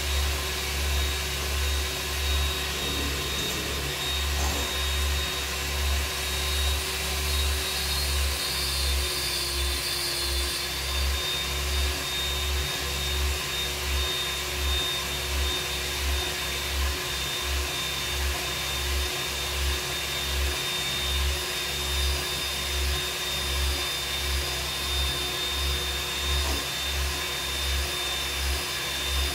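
Steady whir of an electric motor with a constant hum and a high whine, over an uneven, pulsing low rumble.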